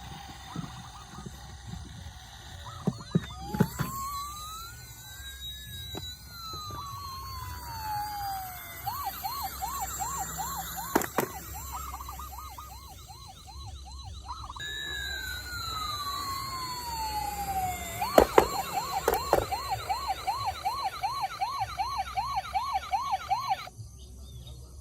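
Electronic siren on a toy emergency vehicle: a slow wail rising and falling, then a fast yelping warble, a second slow falling wail and another fast warble that cuts off shortly before the end. A few sharp knocks are heard among it.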